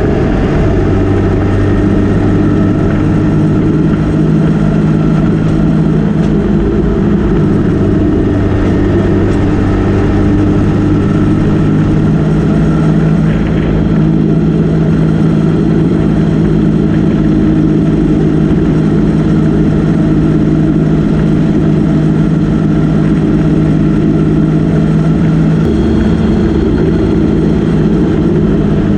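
Motorcycle engine running under way at a steady cruising speed, its note shifting slightly about twelve seconds in and again near the end.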